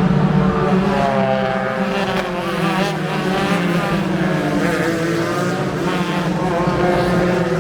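Race car engines running at speed, several engine notes overlapping and rising and falling in pitch.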